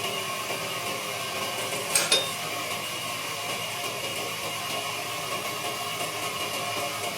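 Wood lathe running with a steady hum, and two sharp metallic clinks close together about two seconds in.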